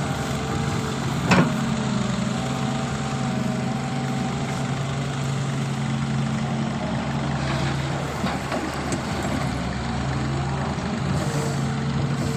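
Heavy diesel engine of earthmoving equipment running at a steady pace, with one sharp knock about a second and a half in.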